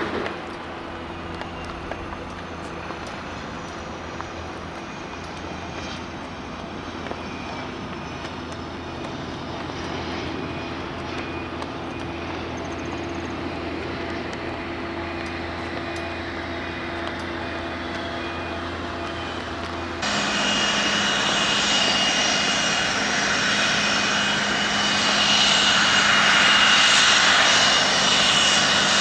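Blue Angels F/A-18 Hornet jet engine noise, steady with a few held tones. About two-thirds of the way in it jumps abruptly to a louder, fuller jet noise with a high whine.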